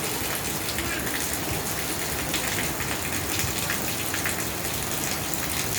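Steady rain falling, with scattered sharp hits of individual drops.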